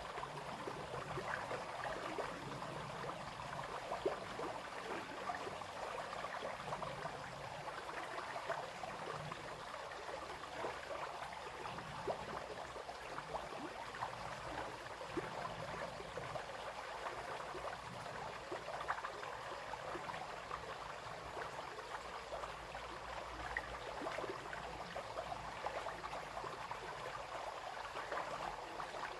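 Small brook running steadily, its water splashing and trickling with many quick little splashes over a constant rush.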